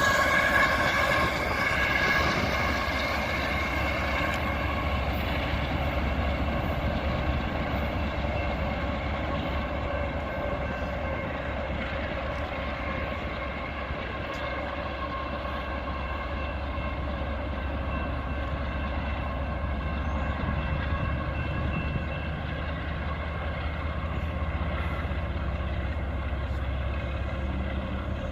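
Autorack freight train rolling past: a steady low rumble with several steady high-pitched tones from the rolling train, slowly easing in loudness.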